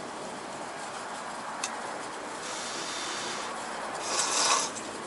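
Udon noodles being slurped: a softer slurp in the middle and a louder, short slurp near the end, with a single sharp click, such as chopsticks against a bowl, before them.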